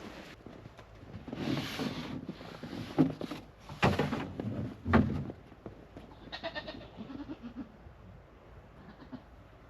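Goats at their water: rustling and three sharp knocks in the first half, then one short goat bleat about six and a half seconds in.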